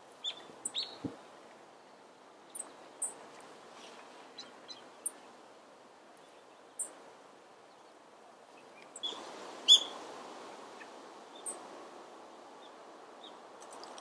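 Small wild birds giving short, high chirps, scattered singly, over a steady background hiss. About two-thirds of the way in comes a quick run of sharp notes, the loudest sound here.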